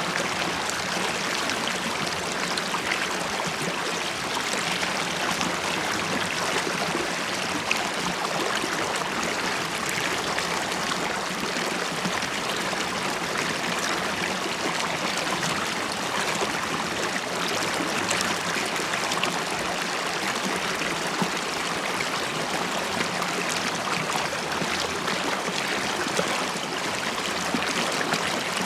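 River water flowing and bubbling steadily, with a continuous rushing hiss and small gurgles.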